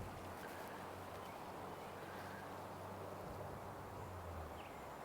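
Outdoor ambience: a steady low hum and hiss, with a faint short bird call near the end.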